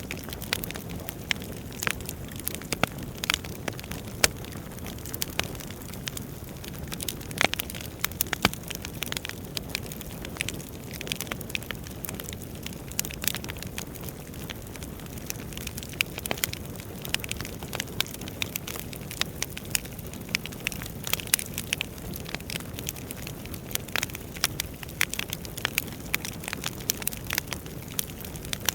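Wood fire burning in a fireplace: a steady low rumble of flames with frequent sharp crackles and pops of burning logs.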